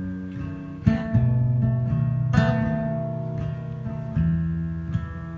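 Acoustic guitar strumming chords between sung lines of a slow country ballad, with three sharp strums each left to ring.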